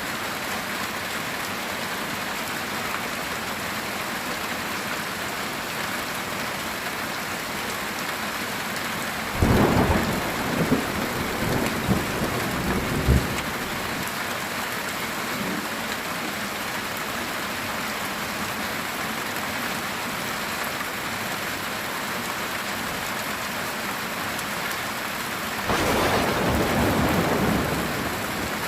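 Heavy rain falling steadily on a metal tin roof, with thunder breaking in twice: a crackling peal about a third of the way in lasting a few seconds, and a shorter rumble near the end.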